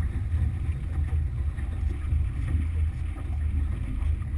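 Motorboat under way on a Yamaha F60 outboard: a steady low rumble with wind buffeting the microphone.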